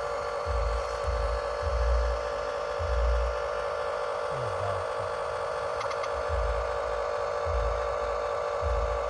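A small radio-controlled construction model gives a steady, even whine, with irregular low thumps underneath.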